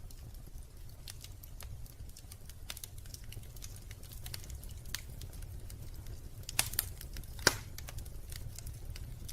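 Wood fire crackling in a fireplace: irregular sharp pops and snaps over a low steady rumble, with two louder pops a little under a second apart near the end.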